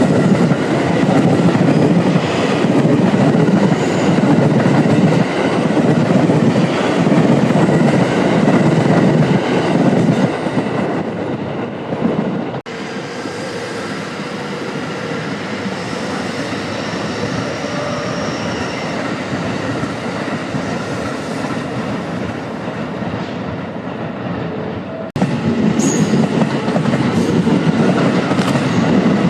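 Trains passing through a station, wheels clattering over the rail joints with a heavy rumble. The sound changes abruptly twice, dropping to a quieter steady running sound about twelve seconds in and jumping back to a loud clatter about twenty-five seconds in.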